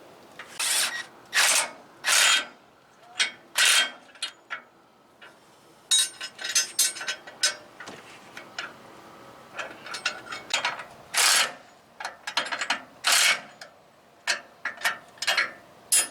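A ratchet clicking in a series of short rasping strokes with scattered metal clicks between them, as the tote's hitch hardware is fastened down.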